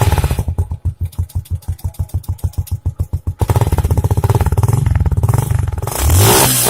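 Suzuki Gixxer SF single-cylinder motorcycle engine running through a modified exhaust. It idles with distinct, evenly spaced exhaust pulses, runs faster and louder from about three and a half seconds in, and is revved up sharply near the end.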